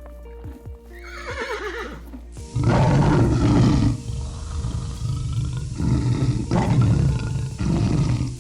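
Background music with a horse's wavering whinny that falls in pitch about a second in, then a sudden switch to loud, rough, deep growls or roars from a large animal in three long bursts.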